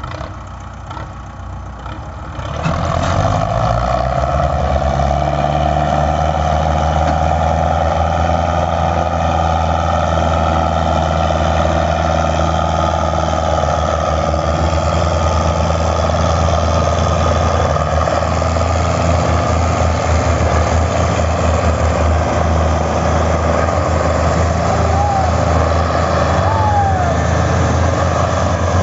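Belarus 510 tractor's diesel engine running hard under heavy load, a steady loud drone that comes up suddenly about two and a half seconds in and holds.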